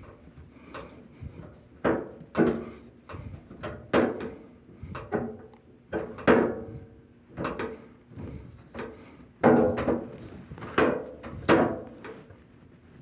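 A series of about a dozen irregular knocks and clunks, some with a short ring after them.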